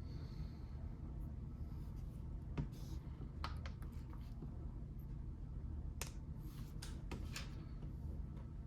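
Scattered light clicks and short scratchy rustles of Lego bricks being handled, over a steady low background hum.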